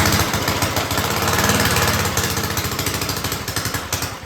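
Rebuilt Clinton single-cylinder small engine firing up on its first start after the rebuild and running fast with a rapid, even beat. It falls off near the end.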